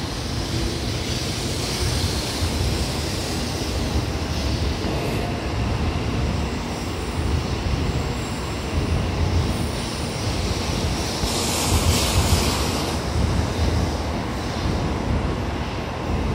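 Shinkansen train rumbling on a nearby station track, a steady low rumble with a louder hissing stretch about twelve seconds in.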